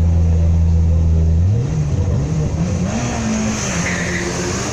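Turbocharged four-cylinder engine of an early Mitsubishi Lancer Evolution rally car held at steady high revs on the start line, then launching about one and a half seconds in and pulling away through quick gear changes, the revs climbing and dropping with each shift.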